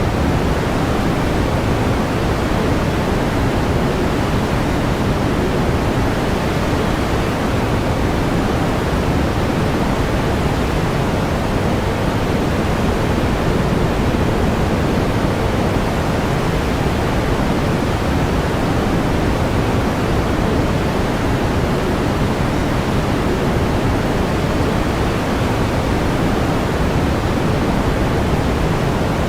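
Pink noise: a steady, even hiss weighted toward the low end, with no change or interruption.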